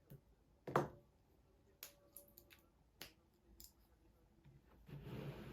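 Small handling noises: scattered light clicks and taps, a louder knock about a second in, and a brief rustle near the end.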